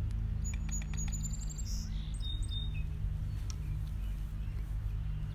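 Small birds chirping in a few short high bursts in the first half, over a steady low rumble, with a few light clicks.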